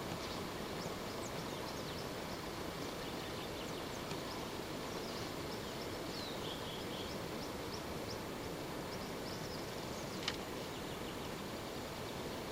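Birds chirping and calling, many short high notes scattered over a steady background hiss, with a single sharp click about ten seconds in.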